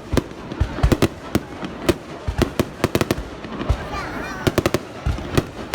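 Fireworks going off in sharp, irregular bangs, some in quick clusters, over the voices of a crowd.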